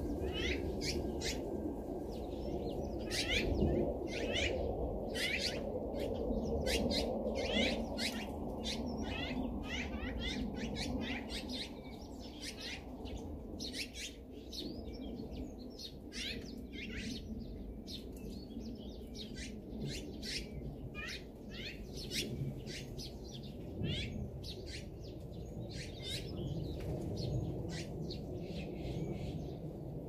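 Several wild birds chirping and calling, a few short chirps every second, over a low steady background rumble.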